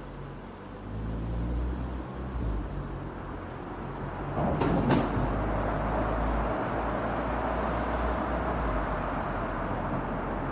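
Car driving on an expressway heard from a roof-mounted camera: steady tyre, road and wind noise with a low rumble that rises about a second in, and two sharp knocks in quick succession about halfway through.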